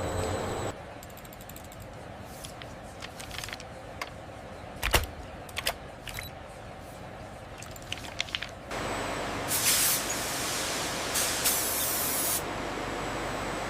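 Machinery hum that cuts off under a second in, then scattered mechanical clicks and knocks. From about nine seconds in comes a steady hiss like spraying, with two louder bursts, which stops about three seconds later.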